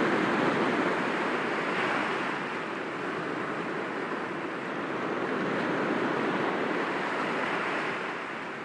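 Sea waves breaking gently against rocks: a steady wash of surf that swells near the start and again a little past the middle, then eases off near the end.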